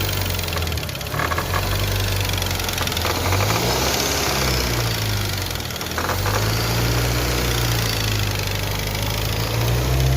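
Car engine running and revved up and down a few times, with a knocking noise from the belt-driven accessories, which the mechanic takes for a worn air-conditioning compressor.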